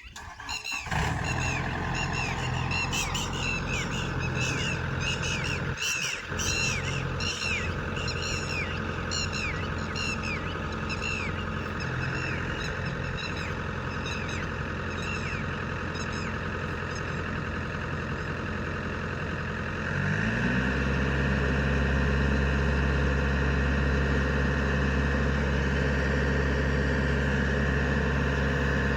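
Diesel engine of farm machinery running steadily, then revved higher and louder about two-thirds of the way through. Over the first half a high chirp falls in pitch again and again, every half second or so.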